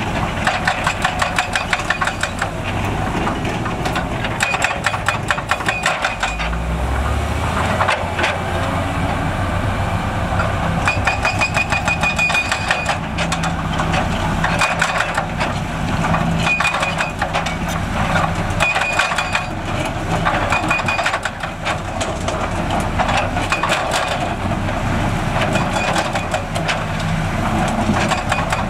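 Heavy diesel construction machinery at work: engines running with dense, irregular metallic clattering and knocking and short high squeals now and then. An engine note grows stronger about six seconds in.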